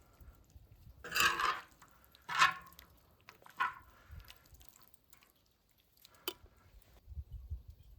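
Serving and handling the food: three short splashy clatters in the first four seconds, then a single sharp click about six seconds in.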